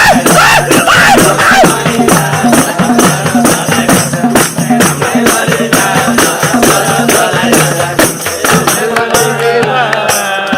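Instrumental break in a Nepali folk song: a fast, steady beat of hand percussion and jingling tambourine-like shakers over a repeating bass figure and melody, with no singing.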